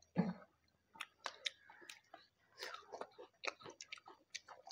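Close-up mouth sounds of people eating rice and chicken by hand: chewing and lip-smacking as a string of irregular short clicks, with one louder smack just after the start.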